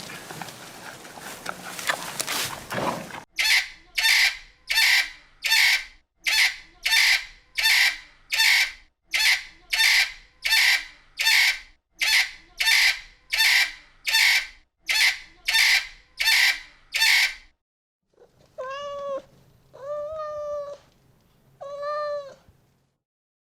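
Animal calls. About twenty short, evenly spaced harsh calls come quickly one after another. After a brief pause there are three longer pitched calls that rise and then fall.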